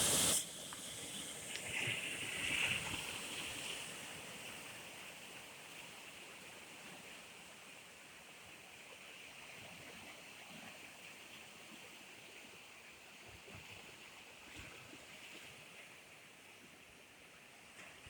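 Steady wash of water noise. A brief loud rush at the very start, then a louder stretch over the first few seconds that fades to an even, low hiss.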